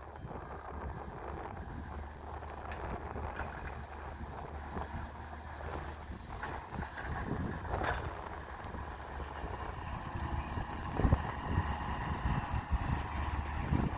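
Daewoo Solar 170W-III wheeled excavator's diesel engine running steadily, with wind buffeting the microphone, growing stronger in the last few seconds. A few short knocks come about halfway through.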